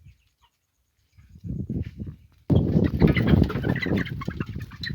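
Chickens clucking in alarm as a dog chases the chicks in their pen. It starts suddenly and loudly about halfway in and carries on.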